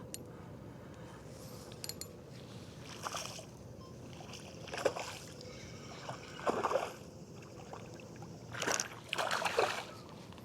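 A small snook splashing at the water's surface beside a kayak as it is reeled in: about five short splashes, the last two near the end the loudest.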